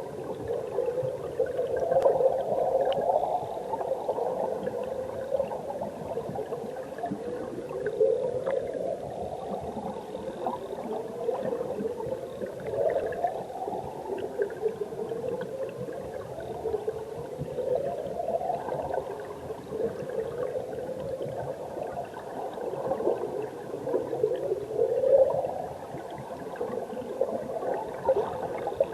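Mountain stream water recorded underwater: a steady churning and gurgling, with rising, warbling sweeps every two or three seconds.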